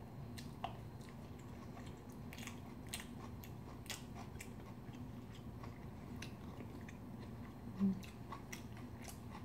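Faint chewing, with scattered light mouth and utensil clicks, over a steady low hum; a short voiced sound comes about eight seconds in.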